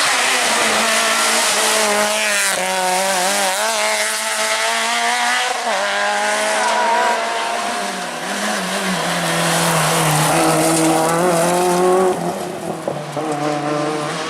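Rally car engine running hard at high revs, its note dropping twice as it shifts gear, with a haze of tyre and gravel noise.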